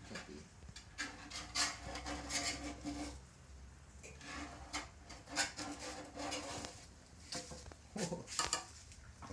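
Paint being scraped off a steel 1979 Yamaha XS750 fuel tank, the stripper-softened paint taken off in a series of short scratchy strokes that make the metal tank ring faintly.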